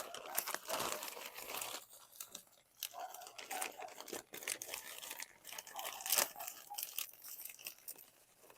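Irregular crinkling, crunching and rustling from plastic and potting soil being handled while a plant is repotted.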